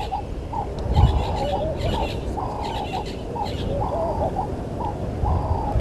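A dove cooing a short phrase over and over, a held note then a quick short one, about every second and a half, over a steady low rumble.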